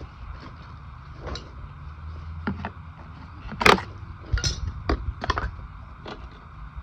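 Tools and metal and plastic parts being handled while a mower is taken apart, heard as a scatter of sharp clicks and knocks over a low steady background rumble. The loudest knock comes a little past halfway.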